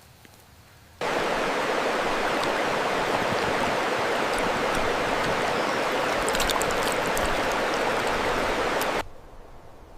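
Steady rushing water, an even hiss that cuts in sharply about a second in and cuts off about a second before the end.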